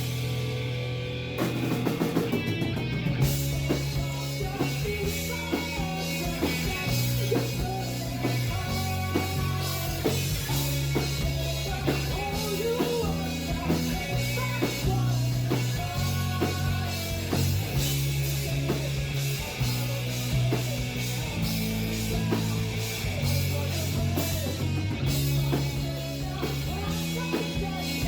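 Live rock band playing, recorded from the audience: electric guitar, bass and drum kit with a female lead vocal. The recording is muddy, with the vocals unclear.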